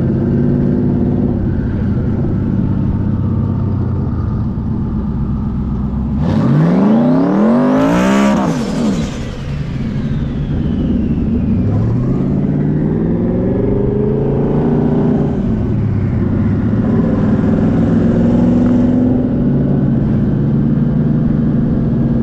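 Modified Ford Mustang V8s in a roll race. An engine drones steadily at first; about six seconds in, a car goes to full throttle and rushes past, its note rising sharply and falling away within about three seconds. A second engine winds up around twelve seconds in and fades, and a steady drone follows.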